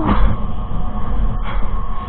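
Steady rush of wind and road noise while riding along a busy highway, with traffic going by and a faint steady whine underneath.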